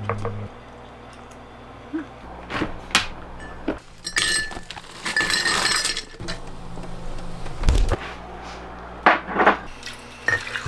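Glassware and tableware clinking and knocking in a handful of sharp taps, with a brighter rustling stretch about four to six seconds in.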